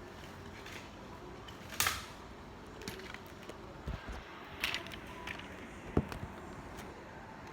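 Irregular clicks, taps and knocks of objects being handled and set down, about six in all, the sharpest about two seconds in and near six seconds, over a steady low hiss.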